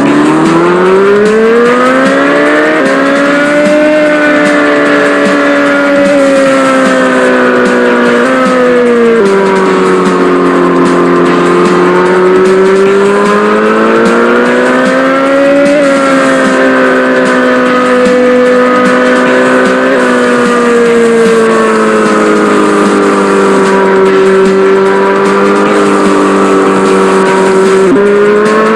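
A racing engine revving in long, slow sweeps: it climbs for a few seconds, eases down, then climbs again, with a few sudden drops in pitch like gear changes.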